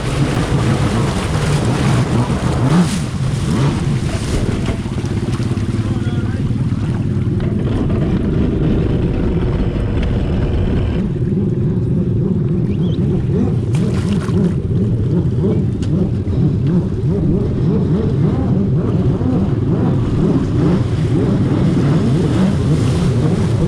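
Jet ski engine running hard on the water, its pitch wavering constantly, with water and wind noise over it.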